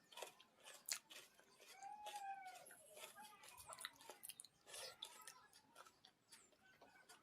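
Close-up chewing and crunching of food by mouth, a string of small irregular crunches and smacks. About two seconds in there is a brief pitched call that rises and falls.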